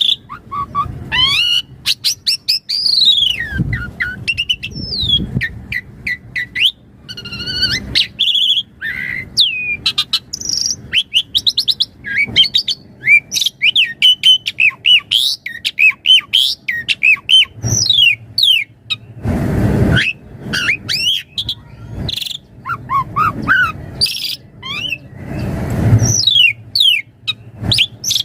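Asian pied starling singing a long, varied song of quick whistles, chirps and notes sliding up and down. Two short harsh, noisy notes break in, one about two-thirds of the way through and one near the end.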